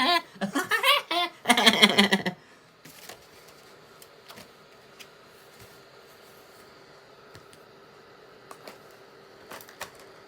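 A voice for about the first two seconds, then faint scattered clicks and taps from a plastic DVD case being handled and opened, over a low steady hum.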